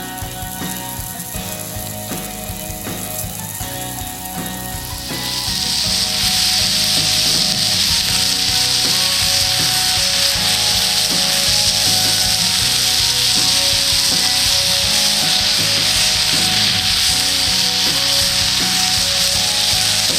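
Fried rice starts sizzling in a hot pan over a wood fire about five seconds in and keeps up a loud, steady sizzle, over background music.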